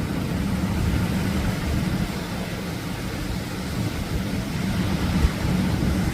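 Atlantic surf washing continuously onto the beach, heard as a steady low rumble with wind on the microphone, with no single wave break standing out.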